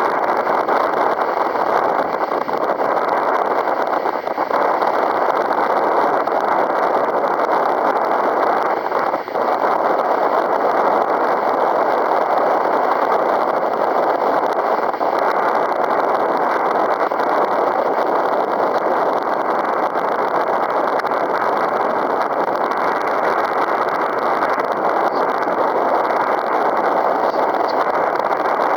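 Strong wind of about 15 m/s blowing over the microphone: a steady, loud rushing noise with no engine or motor tone in it.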